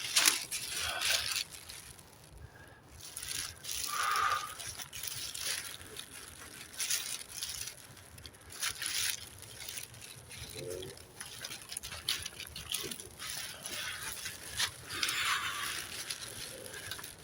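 Footsteps of a person walking through woodland ground litter, an irregular run of soft crunching steps.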